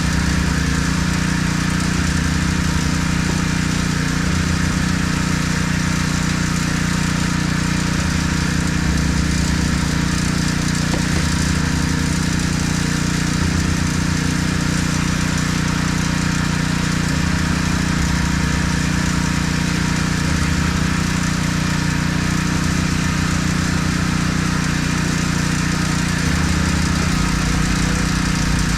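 Small gasoline engine running steadily at constant speed, with a continuous hiss of pressurised water spray over it: a mobile pressure washer at work.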